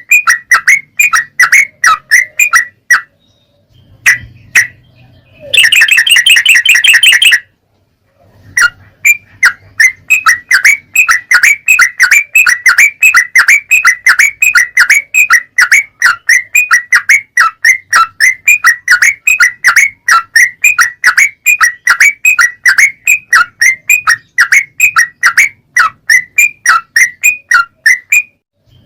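Yellow-vented bulbul (trucukan) song from a cage-bird tutor recording: long series of sharp, quick repeated notes, about four a second. About six seconds in there is a short burst of fast, dense trilling, and two brief pauses interrupt the song.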